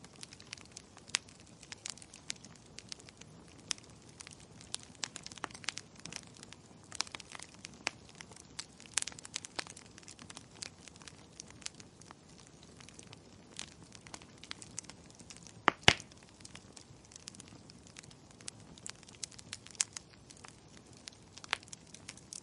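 Wood fire crackling: irregular sharp snaps and pops over a faint steady hiss, with a louder double pop about three-quarters of the way through.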